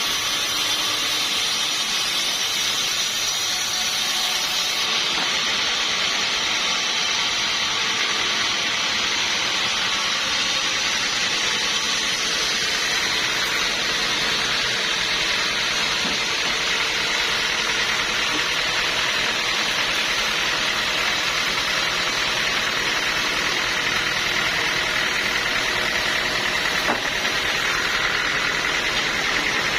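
Sawmill machinery running steadily, a constant loud hissing noise that does not change.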